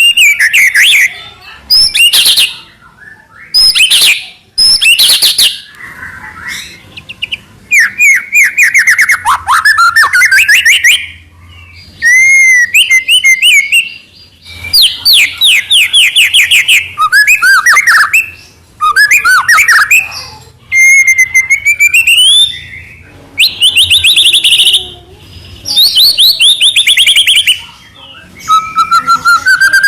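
White-rumped shama singing loudly in full song: phrases of rapid repeated notes and sweeping whistles, a second or two each, separated by short pauses.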